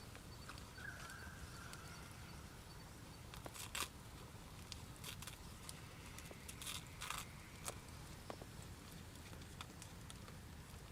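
Campfire crackling quietly: sparse, irregular sharp pops and clicks, with a few louder snaps in the middle.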